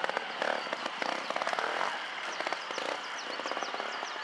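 Trials motorcycle engine running at low revs, a fast, irregular crackle of exhaust pulses. From about two seconds in, short high chirps sound over it.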